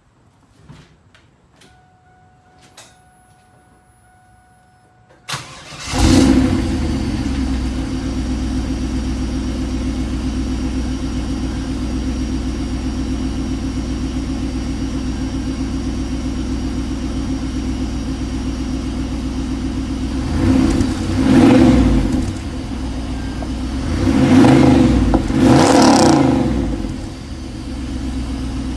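A 1997 Chevrolet Camaro Z28's 5.7-litre LT1 V8 cold-starting through a 3-inch Borla S-Type cat-back exhaust. After a few faint clicks and a steady tone, the starter cranks briefly and the engine catches about six seconds in with a flare. It settles into a steady idle and is blipped four times near the end before settling back to idle.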